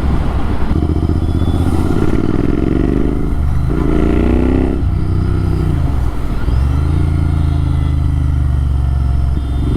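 Motorcycle engine through an AEW TE102 aftermarket exhaust with its dB killer removed, loud and unbaffled. The revs climb three times with a drop between each, then hold steady in the last few seconds.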